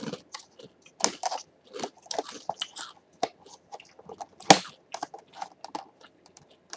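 A person chewing a crunchy baked parmesan cheese crisp: irregular crisp crunches, the loudest about four and a half seconds in.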